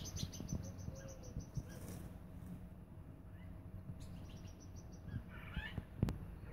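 Birds in an aviary calling faintly: a quick run of high ticking notes, about nine a second, around the start and again about four seconds in, with a few softer call notes between. A single sharp knock comes near the end.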